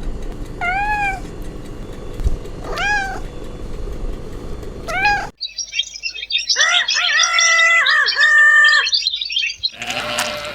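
A cat meowing three times, each meow a short call rising and falling in pitch. About halfway in the sound cuts to dense high chirping with several longer pitched calls from another animal.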